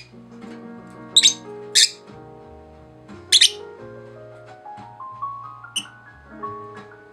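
Background music of held notes that climb step by step, with pet parakeets giving short sharp chirps over it about four times.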